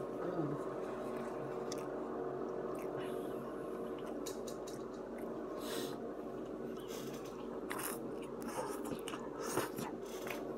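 A person chewing a burger and fries close to the microphone, with wet mouth sounds. There are a few short, sharper noises in the second half, over a steady low hum.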